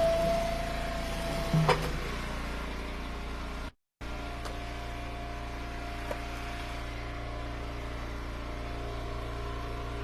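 Eastonmade Ultra wood splitter's engine running steadily, with a held whine at the start that ends in a sharp knock about two seconds in. The sound cuts out completely for a moment shortly before four seconds.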